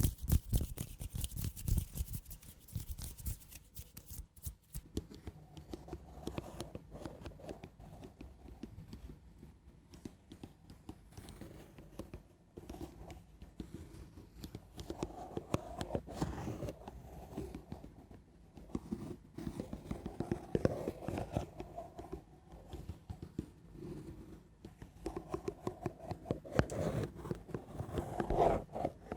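Gentle, slow ASMR scratching: a steady run of short, irregular scratchy strokes, with louder clusters now and then.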